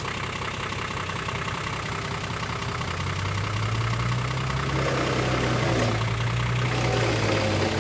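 Nissan Patrol 4x4's engine idling. About three seconds in it rises to a louder, slightly higher steady pitch and holds under load as the stuck vehicle works out of a mud hole, then drops back near the end.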